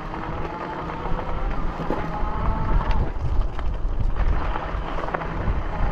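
Wind buffeting the microphone on a moving bicycle, a low rumble that grows stronger about a second in.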